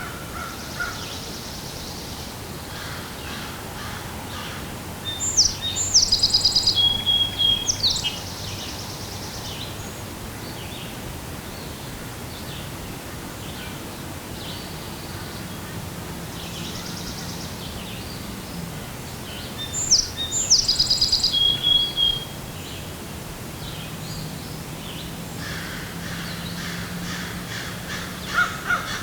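Songbird singing: two loud phrases of quick high notes ending in trills, about five seconds in and again around twenty seconds, with fainter birds chirping in the background.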